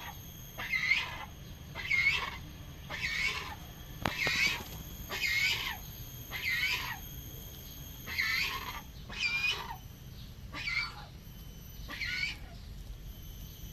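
Yellow-crested cockatoo giving a steady series of short calls, about one a second, roughly a dozen in all.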